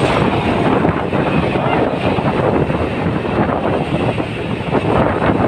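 Truck engine running loudly, with wind noise on the microphone.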